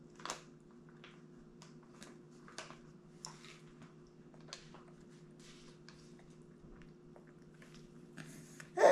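A baby chewing and smacking on a mouthful of durian: a scatter of soft, wet mouth clicks over a steady low hum. A voice breaks in loudly at the very end.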